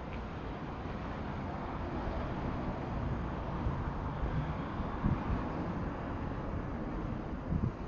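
Wind buffeting the microphone outdoors: a steady low rumble, with louder gusts about five seconds in and again near the end.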